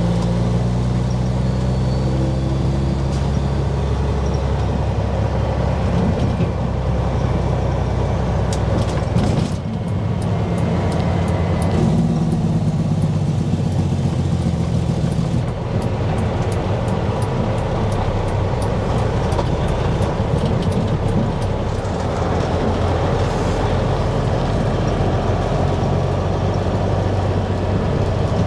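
Dump truck's diesel engine running steadily while being driven, heard from inside the cab. The engine note breaks and changes briefly about ten and sixteen seconds in, as at gear shifts, and there are short runs of light, evenly spaced ticks.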